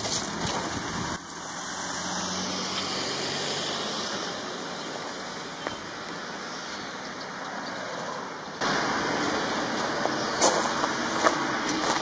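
Steady road-traffic noise with a vehicle passing. About two-thirds of the way through, the sound cuts abruptly to louder noise with scattered clicks and knocks.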